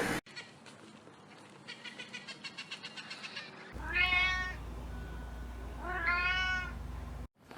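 A cat meowing twice, each meow about half a second long and about two seconds apart, over a low hum. Before the meows there is a quieter stretch of faint rapid clicking.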